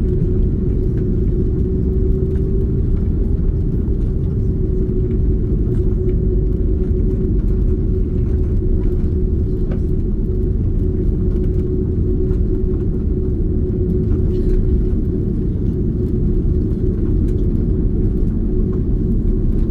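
Airbus A330 jet heard from inside the cabin: a steady low rumble of engine and airflow noise with a steady droning hum running through it.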